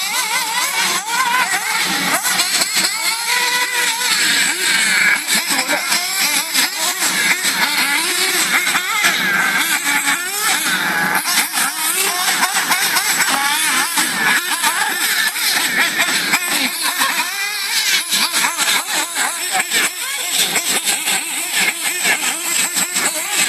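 Several battery-powered RC cars' electric motors whining, their pitches rising and falling with the throttle as the cars accelerate and ease off, with scattered clicks and clatter from the cars on the track.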